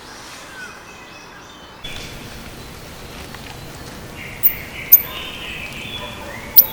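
Steady rain falling on a forest, with a bird giving three sharp, very high-pitched chirps that drop in pitch, starting about halfway through.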